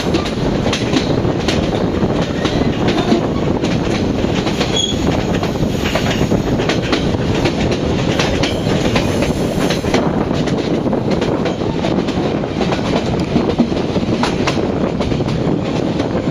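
Train running along the track: a loud, steady rumble with irregular clicks and knocks of the wheels passing over the rails.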